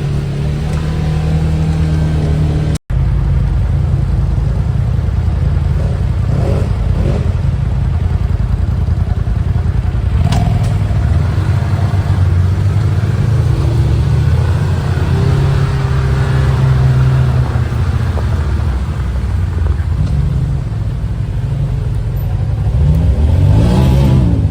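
Off-road side-by-side engine running steadily under load, rising in revs near the end. The sound drops out for an instant about three seconds in.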